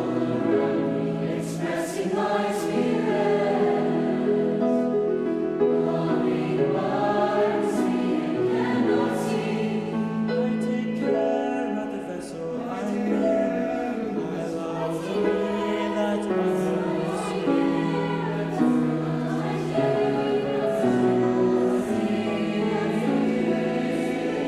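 Youth choir singing, several voice parts held together in harmony.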